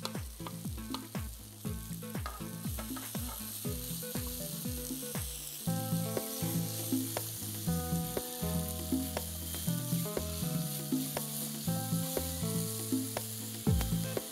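Cauliflower and masala sizzling in a hot kadai as a wooden spoon stirs and scrapes through them, under background music with a steady beat.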